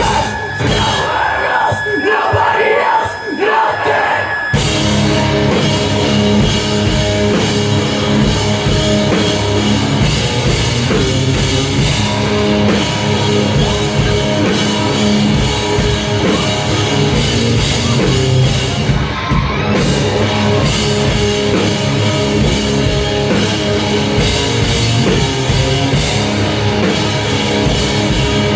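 Live rock band playing loud through a club PA, with amplified guitars, bass and drum kit. After a sparser opening with a held high tone, the full band crashes in about four and a half seconds in and carries on at full volume.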